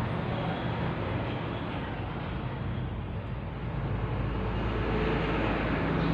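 A motor running steadily with a low hum, getting louder from about four seconds in.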